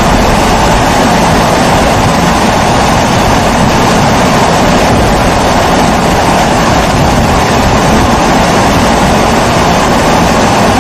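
Pressurized kerosene stove (babour, Primus-type) burner running steadily, a continuous even rushing noise with a low rumble under it.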